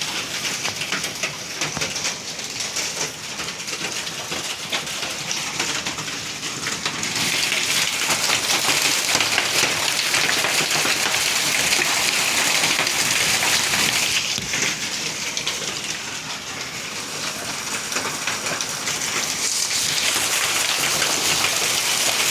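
Heavy storm rain pouring down and pattering densely on surfaces. It swells louder about seven seconds in, eases off around fourteen seconds, and builds again near the end.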